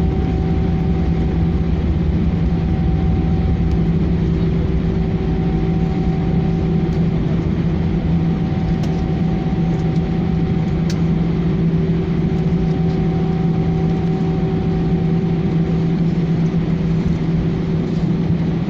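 Airbus A318 cabin noise with the engines at idle while the plane taxis after landing. It is a steady drone with a few constant humming tones over an even rush of air.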